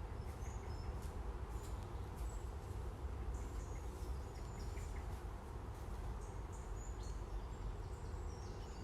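Outdoor nature ambience: a steady low rumble with faint, high bird chirps scattered throughout.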